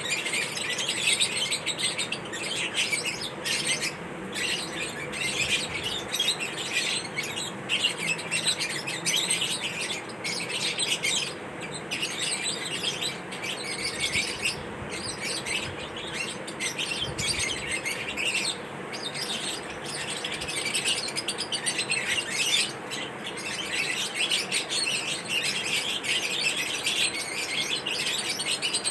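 Lovebirds chirping continuously: a dense, rapid stream of high-pitched chirps and twitters from several birds.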